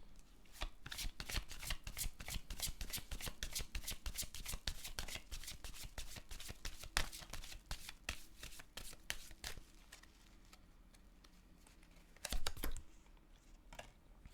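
A deck of tarot cards being shuffled by hand: a quick, dense run of card clicks for about nine seconds, then a pause and a brief card rustle near the end.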